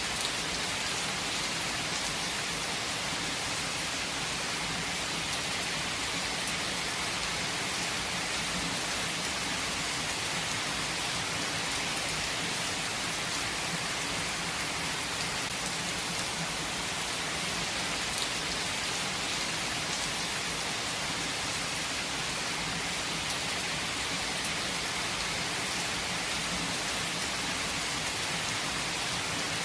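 Steady rain falling, an even hiss that holds at the same strength, with a few individual drops standing out now and then.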